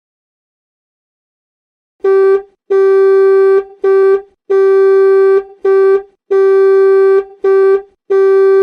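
Car horn honking eight times in an alternating short-long pattern, each blast one steady, single-note tone, starting about two seconds in.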